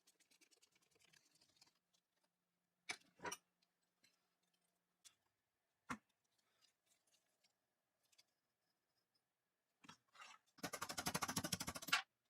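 Hand work on small metal parts of an old gun: a faint scrape, a few sharp metal clicks, then near the end about a second and a half of rapid, even ratcheting clicks.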